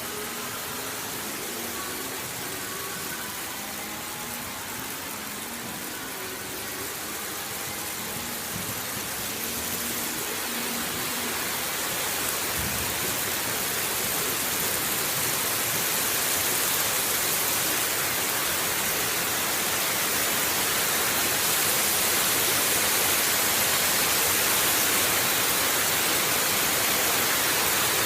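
Hail falling hard, a dense steady hiss of hailstones that grows gradually heavier and louder.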